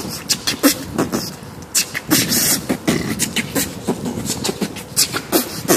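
Irregular pops and thumps, a few a second, over a steady hiss, picked up close on a mobile phone's microphone out in the rain.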